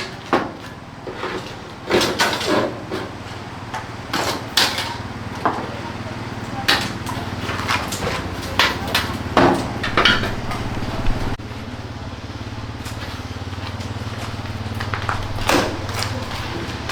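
Scattered metallic clinks and knocks of hand tools on metal parts during repair work, over a steady low hum.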